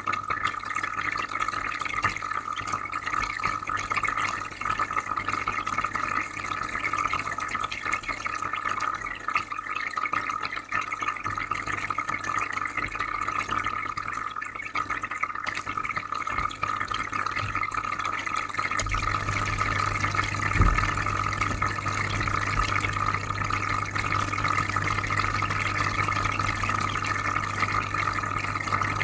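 Aquarium filter running, with water bubbling and trickling steadily and a low buzzing hum underneath. The hum gets louder about two-thirds of the way in, and a brief low thump follows shortly after.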